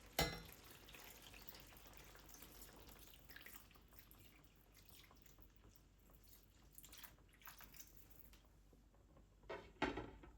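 Quiet kitchen handling sounds: a sharp click just after the start, scattered faint ticks and light knocks, then two knocks close together near the end.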